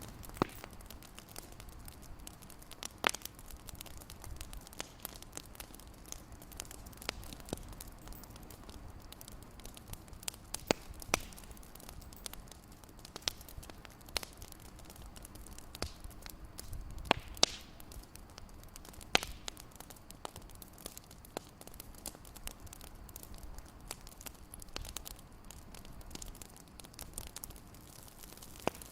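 Wood fire crackling in a fireplace: irregular sharp pops and snaps, a few louder ones, over a soft steady hiss.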